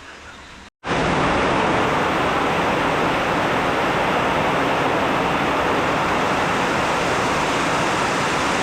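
Heavy rain falling steadily in the rainforest, an even rushing hiss that starts abruptly about a second in, after a short gap of silence.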